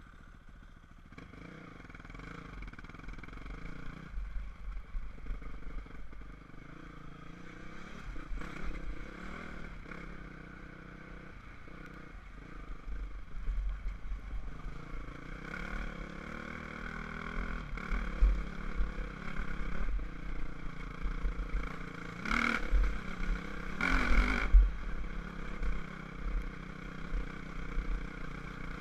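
Enduro dirt bike engine running and revving, its pitch rising and falling as it rides, over a heavy low rumble. Two short, loud bursts come a little over two-thirds of the way through.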